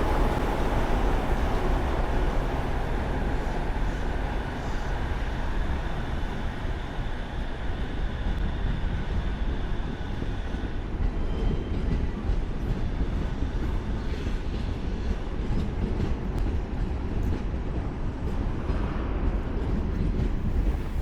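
A train running past with a steady low rumble and a faint whine that fades out about ten seconds in.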